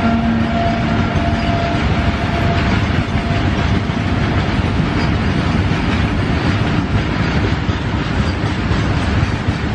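Freight train wagons rolling past on the rails: a loud, steady rumble with a rapid wheel clatter. A steady hum, likely from the locomotive, fades out in the first second and a half.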